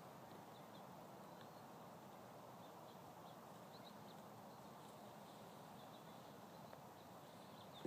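Near silence: faint outdoor ambience with scattered, short, high bird chirps.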